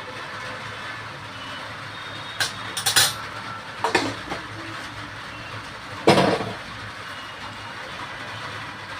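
Steady sizzling hiss of a curry base cooking in a pan, with a few sharp clanks of a utensil against the pan, the loudest about six seconds in.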